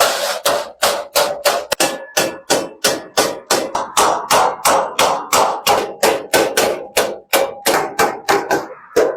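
Hand hammer striking thin sheet iron in a steady rhythm, about three to four blows a second, each with a short metallic ring, as the iron is shaped for a bucket. The blows pause briefly near the end.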